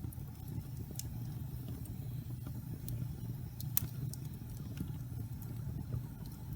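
Wood fire burning in a fireplace: a steady low rumble of the flames with scattered sharp crackles and pops from the logs, the loudest pop a little past halfway.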